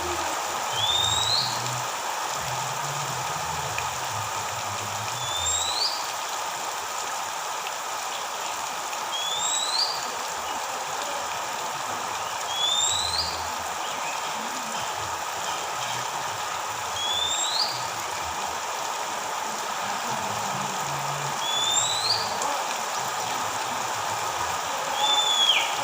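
Oriental magpie-robin (kacer) giving a short rising whistle about every four seconds, seven times, the last one hooked and falling near the end. A steady hiss like running water or rain lies under the calls.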